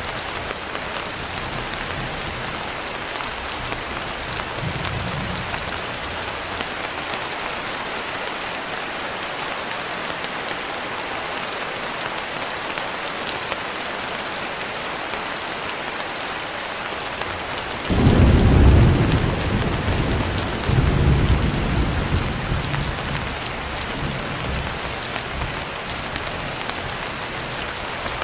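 Steady rain hiss, with a sudden thunderclap about two-thirds of the way in that rolls on in a low rumble, swelling once more before dying away over several seconds.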